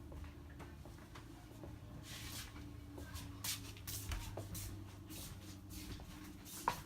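Faint room sound of a railway dining car: a steady low hum with scattered light clicks and rustling, and one sharp click near the end.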